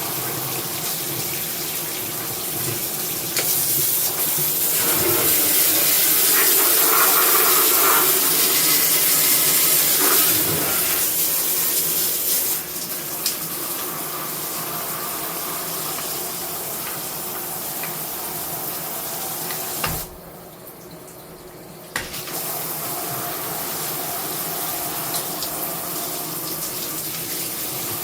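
High-pressure shower head spraying water in a steady rush. It grows louder a few seconds in, eases back about halfway through, and cuts off for about two seconds near the end before starting again.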